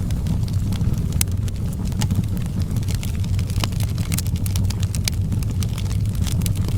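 Outdoor wood fire crackling, with frequent short sharp pops scattered irregularly over a steady low rumble.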